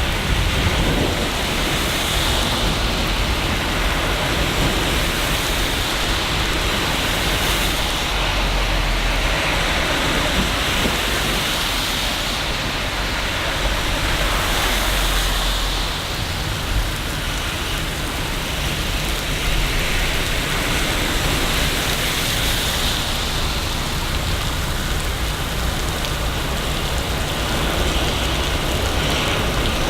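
Steady heavy rain falling in a city, an even hiss of drops on hard surfaces, with a deep low rumble underneath that eases about halfway through.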